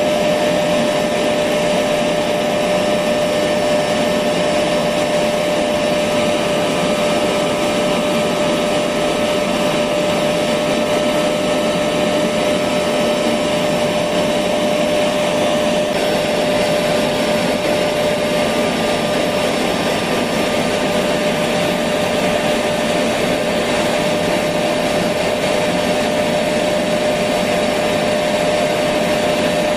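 Electric vacuum cleaner running steadily, a constant whooshing drone with a steady hum, used as white noise.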